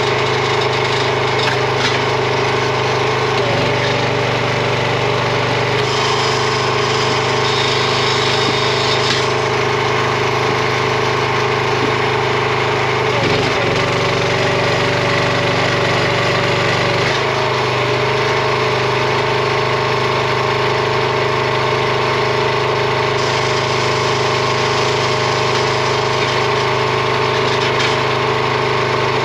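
A RuggedMade gas-powered log splitter's small engine running steadily. Its note changes twice, for a few seconds each, about four seconds in and again about thirteen seconds in.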